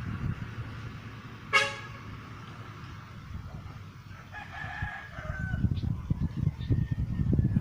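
A rooster crowing about four and a half seconds in, after a short, sharp pitched call a second and a half in, over low rumbling noise.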